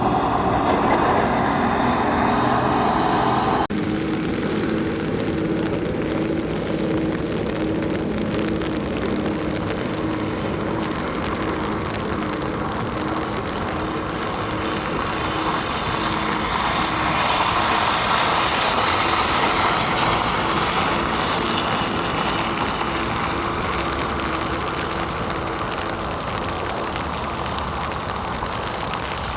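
Steady motor-vehicle engine and road traffic noise with a low, even hum, changing abruptly a few seconds in.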